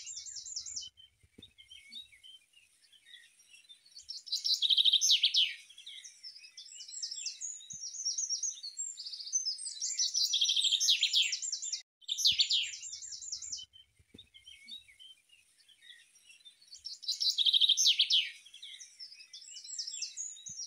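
Songbirds singing: a loud phrase of rapid trills comes back about every six to seven seconds, near the start of each stretch, with softer chirps in between.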